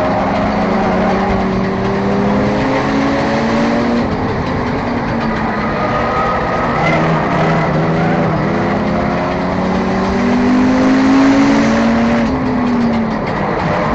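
Enduro race car engine running hard at race speed, its pitch climbing under acceleration and falling back as the driver lifts, with a sharp drop-off about twelve seconds in.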